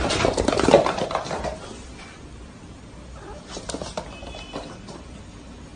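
A pet animal making noise: busy scuffling and patter in the first second or so, then quieter, with a brief high-pitched sound about four seconds in.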